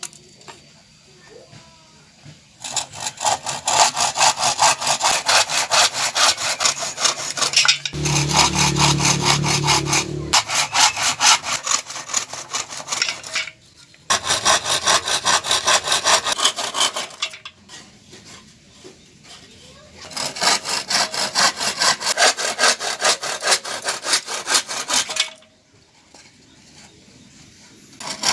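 Wood being cut with a hand saw, in quick back-and-forth strokes. It comes in bouts of a few seconds with short pauses between.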